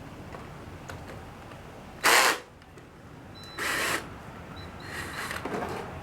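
Ratchet socket wrench clicking in three short bursts while loosening the 10 mm bolts of a scooter intake manifold; the first burst is the loudest.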